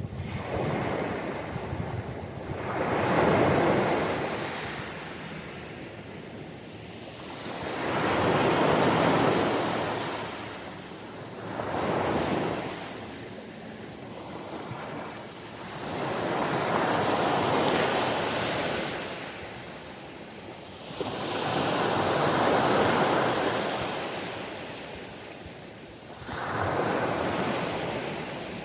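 Ocean waves breaking on a shore, each wave swelling and washing back in slow surges about every four to five seconds, with a steady hiss of surf between them.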